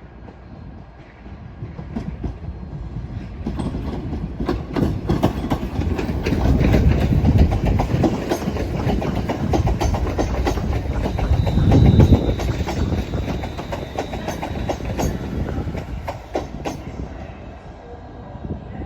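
A train passing along the track, its wheels clicking rapidly over the rail joints, building to a peak partway through and then fading away.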